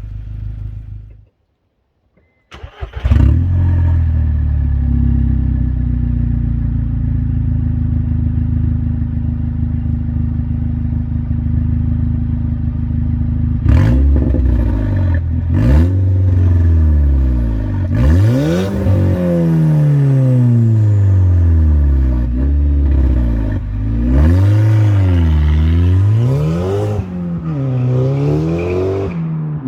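Stage 3 tuned VW Golf Mk6 GTI 2.0 TSI turbo four-cylinder engine, sounding through a 3-inch Milltek valved exhaust. It comes in suddenly after a short gap and idles steadily. About halfway through it is blipped twice, then revved repeatedly, the pitch rising and falling with each rev.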